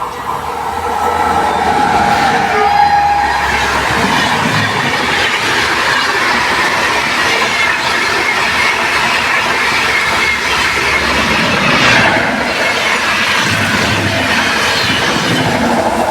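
A train running through the station at speed, its wheels clattering and rumbling over the rails in a loud, steady run-through.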